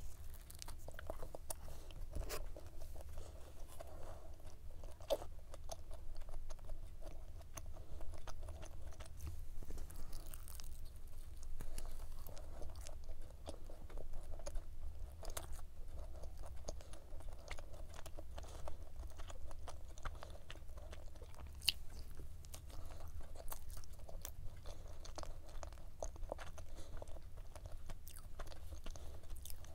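A person chewing and crunching a flaky laminated-pastry cube pie with pistachio topping and cream filling, the layers still crisp and crackling in many small clicks as she chews.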